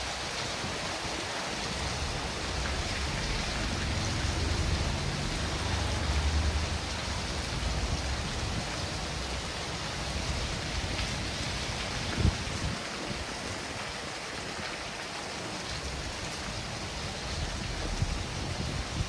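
Steady rain falling, an even hiss throughout. A low rumble swells and fades in the first half, and a single knock sounds about twelve seconds in.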